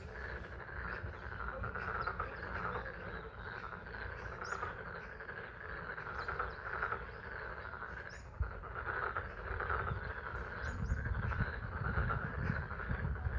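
A pond chorus of many frogs calling at once, a steady dense trilling, over the hiss of spring rain. A low rumble runs underneath and grows stronger near the end, and a few short high calls stand out now and then.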